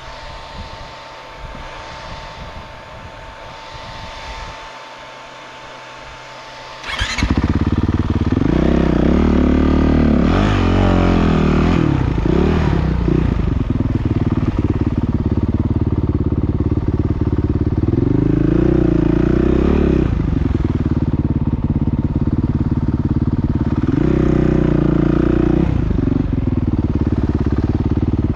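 Motocross motorcycle engines, quieter at first with a steady whine, then suddenly loud from about seven seconds in, revving up and down several times.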